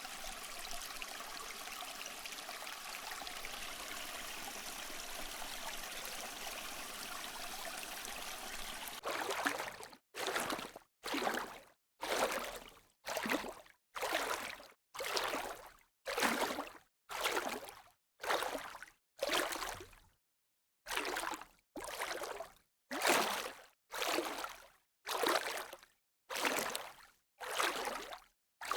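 Steady rushing water from a sea-waves recording. About nine seconds in it breaks into short pulses about once a second with dead silence between them, the water sound cutting on and off.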